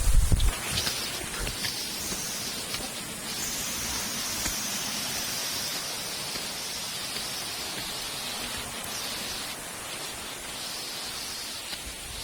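A steady, high-pitched hiss of tropical forest ambience on the trail, with a few faint rustles and a low bump on the microphone right at the start.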